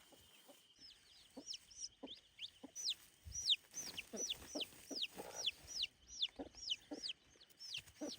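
A flock of young chicks peeping continuously, each peep a high call sliding sharply downward, several a second, over faint knocks and rustles.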